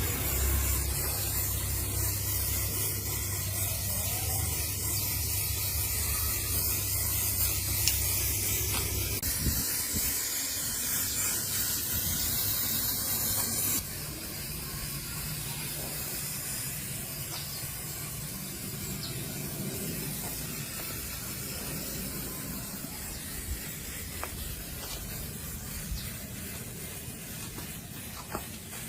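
Steady hiss of a compressed-air spray that drops sharply in level about 14 seconds in, with a low hum underneath that stops about 9 seconds in.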